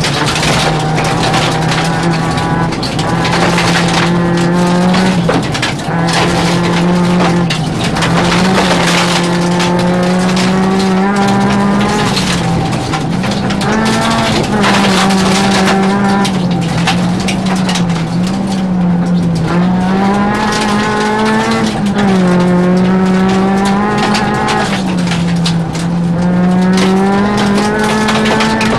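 Rally car engine at full stage pace, heard from inside the cabin: the engine note climbs and drops every few seconds as the driver accelerates, changes gear and lifts for corners.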